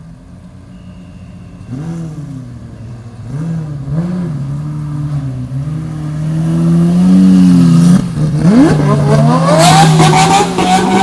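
Supercar engine revving with the car stationary: short throttle blips from about two seconds in, then revs climbing and held higher. After about eight seconds another quick rise, and from about nine and a half seconds the engine sound grows louder and denser, joined by a loud hiss.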